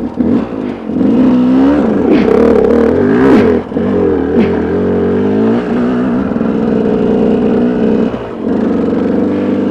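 Motorcycle engine pulling in low gear, its pitch rising and falling as the throttle opens and eases, with two short drops in level about three and a half and eight seconds in.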